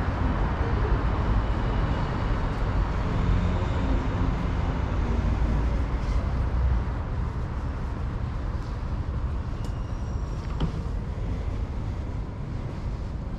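City street traffic noise: a steady low rumble of passing vehicles that eases a little about seven seconds in, with a few faint short high tones and ticks around ten seconds in.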